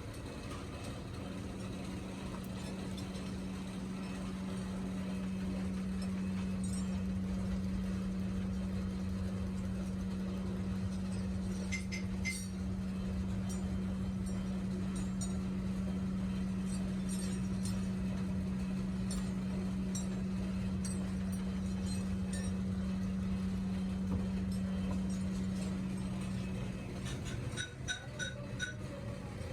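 A workshop machine's motor hums steadily on one low tone, then stops near the end. Small metal parts clink sharply and ring, once midway and several times near the end.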